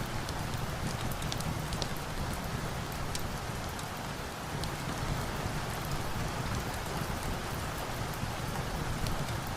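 Steady rain falling, an even hiss with scattered small sharp ticks throughout.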